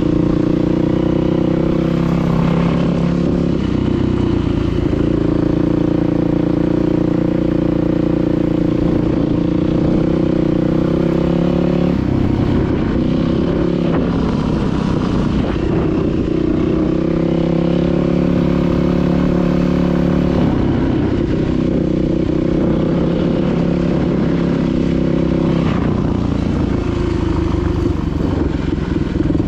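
Dirt bike engine running under way, its note holding steady for stretches and changing pitch several times as the throttle and gears change.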